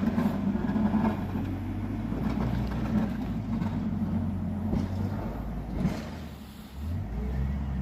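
Snow plow truck driving by on a snowy street, its engine running with a steady low rumble that is loudest at first, dips briefly and comes back near the end.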